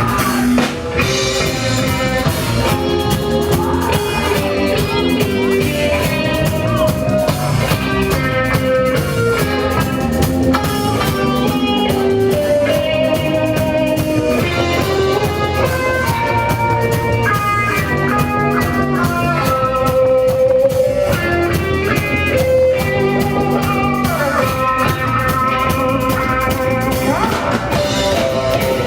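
Live rock band playing an instrumental passage: a pitched guitar melody over drum kit and bass, with no singing.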